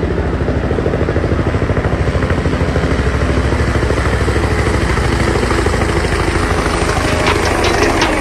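Micro RC Black Hawk helicopter (K170) running, its small electric motor and rotors whirring steadily with a fast, even rotor pulse. A series of light ticks starts near the end.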